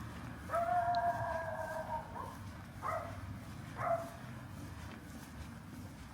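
A rooster crowing once in a long call of about a second and a half, followed by two short calls about a second apart, over a low steady city hum.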